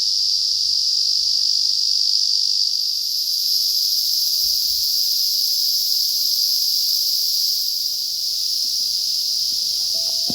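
Steady chorus of summer insects, a dense high shrill, with a second, even higher layer joining about three seconds in.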